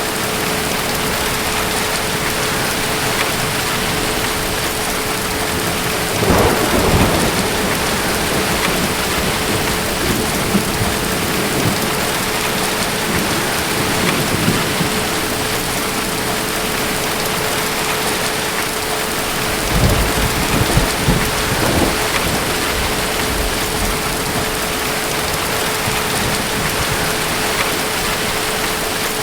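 Steady heavy rain hissing, with rolling rumbles of thunder about six seconds in and again around twenty seconds in.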